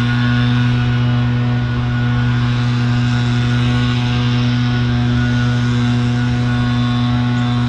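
A steady, unchanging low drone, a hum held on one pitch with a hiss over it.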